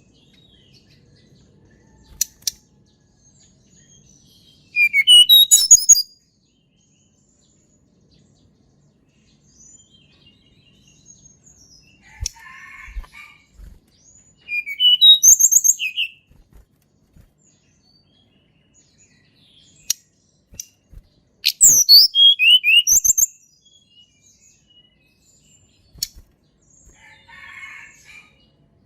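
Tledekan gunung songbird singing: three loud phrases of quick, high whistled notes that jump up and down in pitch, separated by pauses of several seconds, with softer scratchy calls between them.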